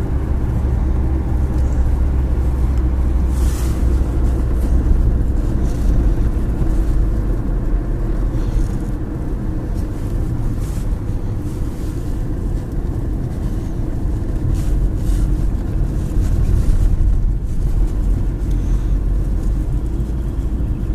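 Car driving through city streets: a steady low rumble of engine and road noise.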